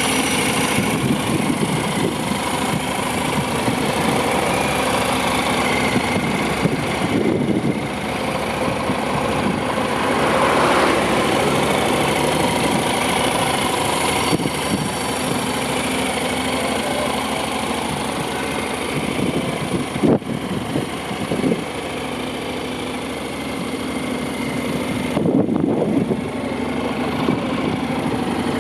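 Honda NC750 S's 745 cc parallel-twin engine idling steadily, with a few short rises in engine speed.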